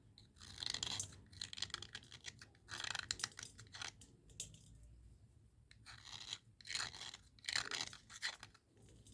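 Dry cubical slate pencil being scraped, gritty crunching scratches in four short spells with quiet gaps between.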